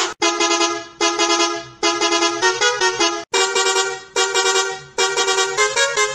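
Bus horn sound effect playing a repeating tune: a run of short pitched honks, roughly one a second, some stepping between two or three notes.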